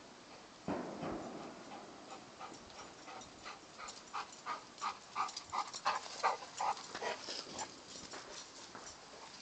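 Golden retriever panting in a quick run of short breaths, after a brief rustle near the start.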